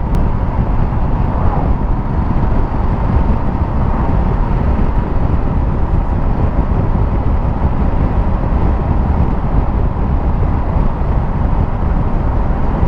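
Steady, loud wind and road noise from a motorcycle being ridden, with no distinct engine note showing.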